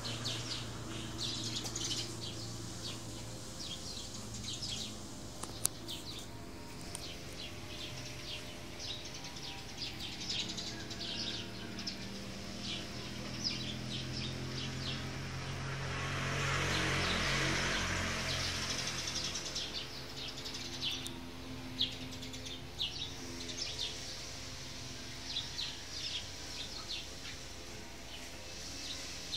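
Small birds chirping in short, scattered calls over a steady low background hum. A little past halfway, a broad rush of noise swells up and fades away.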